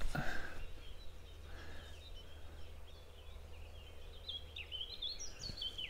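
A songbird singing a rapid, jumbled run of high twittering notes, more prominent in the second half, over a faint steady low hum.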